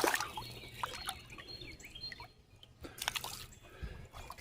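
Light dripping and splashing in a shallow creek, with scattered small knocks and a brief louder splash about three seconds in.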